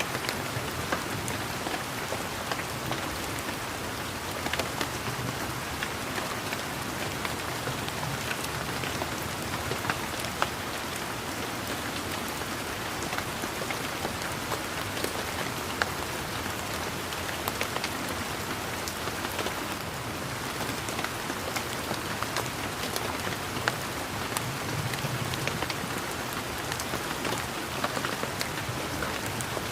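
Steady rain, with many sharp individual drops ticking out over an even hiss.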